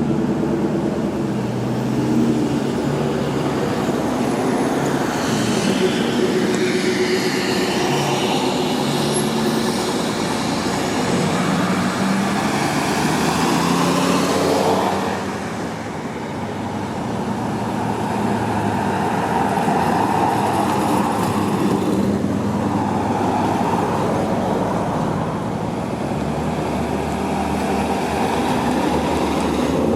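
Car engines running at idle: a steady low engine hum whose pitch lines shift now and then, with a short dip in level about halfway through.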